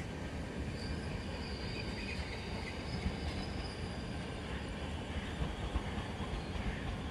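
Double-deck electric suburban train pulling into a station, a steady rumble of wheels on rails. A faint high squeal starts about a second in and fades out around four seconds in.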